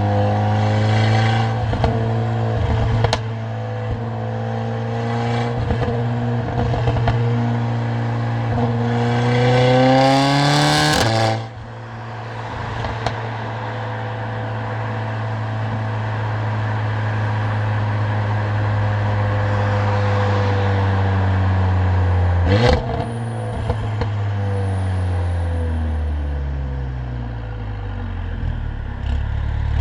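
Mercedes-AMG CLA45's turbocharged four-cylinder engine and loud exhaust on the move. The revs climb in a pull about ten seconds in and cut off sharply, the engine holds a steady cruise, a single sharp crack comes a little past twenty seconds, and the revs then fall away as the car slows.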